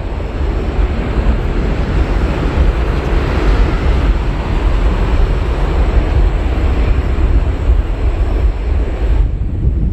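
Jet engine noise of a landing Boeing 777-300ER and its GE90 turbofans: a loud, steady rumble with a strong low end that thins out near the end.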